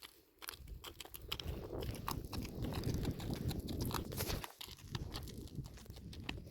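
A donkey chewing and crunching grass or dry plants close by, with irregular crackling bites.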